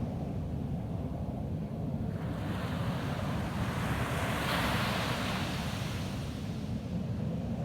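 Ocean waves on a beach: one wave washes in about two seconds in, swells to its loudest near the middle and fades away, over a steady low rumble of wind on the microphone.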